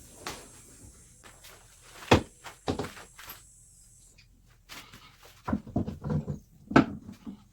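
Irregular knocks and clunks of a car body panel part being handled and pushed into place, the loudest about two seconds in and a quick cluster of them near the end. A faint steady hiss runs underneath and stops about halfway through.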